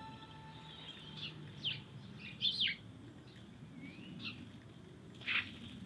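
Garden birds chirping: scattered short, quick chirps that drop in pitch, the loudest about two and a half and five seconds in, over a faint low hum.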